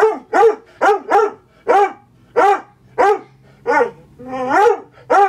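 A dog barking over and over at a cardboard cutout of a person: about ten short, sharp barks roughly half a second apart, with one longer, drawn-out bark about four and a half seconds in.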